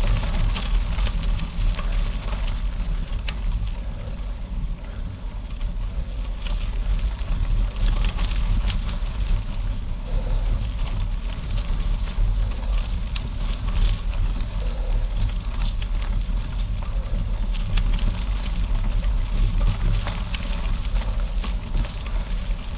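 Wind buffeting the microphone on a bicycle riding over gravel, a steady low rumble with the tyres crackling and ticking on the stones throughout.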